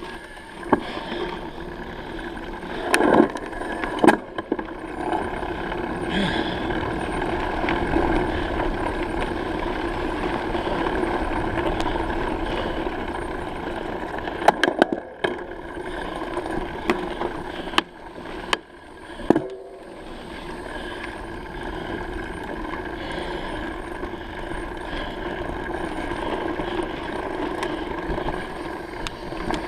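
Bicycle rolling along a road: steady tyre and wind noise, with sharp knocks and rattles from bumps about three to four seconds in and several more around the middle.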